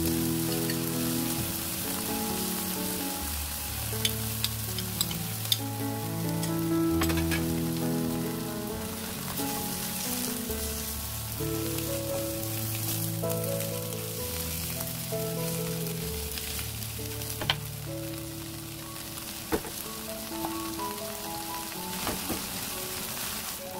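Shrimp, spinach and corn sizzling in hot oil in a frying pan as they are stir-fried, with a few sharp taps of the utensil against the pan. Background music plays underneath.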